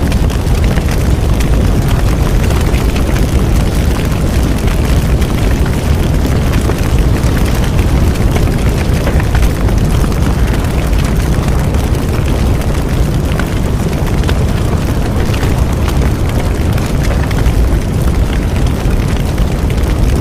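Bonfire burning steadily: a constant low rumble with dense, continuous crackling and popping.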